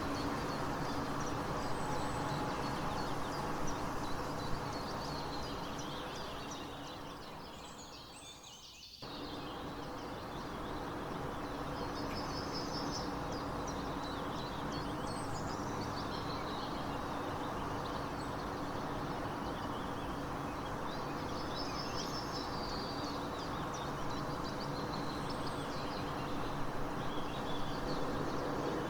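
Birds chirping and twittering over a steady background noise bed. The ambience fades down about six to eight seconds in and cuts abruptly back in about nine seconds in.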